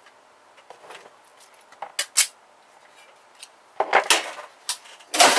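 Metal parts of a printer being handled during disassembly: scattered sharp clicks and clinks, two about two seconds in and a busier clatter in the last second and a half.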